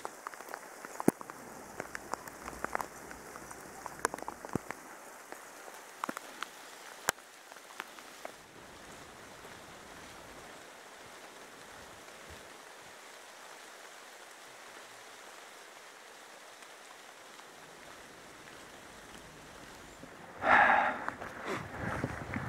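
Heavy rain falling steadily as an even hiss. During the first several seconds sharp ticks of drops land close by. Near the end there is a brief louder rush of noise.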